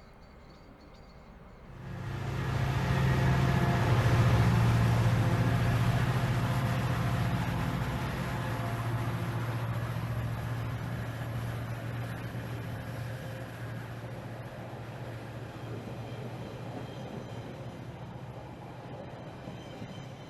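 A train passing: a heavy rumble comes in suddenly about two seconds in, is loudest a couple of seconds later, then slowly fades away.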